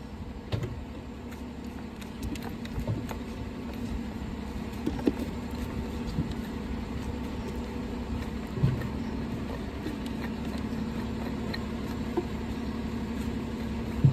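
A steady low mechanical hum, with scattered light knocks and clicks over it.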